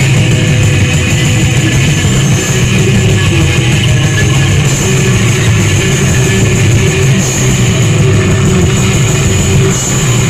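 A rock band playing live: distorted electric guitar with drums, loud and dense, with no singing.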